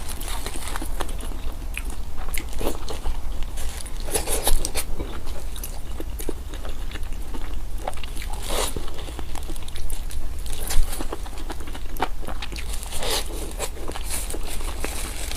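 Close-miked eating sounds: biting and chewing crunchy food, with irregular crackly crunches and wet mouth noises, two bites louder than the rest, one about four and a half seconds in and one near eleven seconds.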